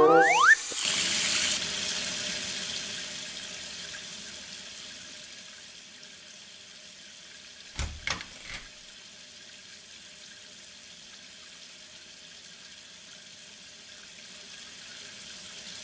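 Water running steadily, as from a tap or shower, loudest at first and settling quieter over the first few seconds. About eight seconds in, a hand knocks three times on a door.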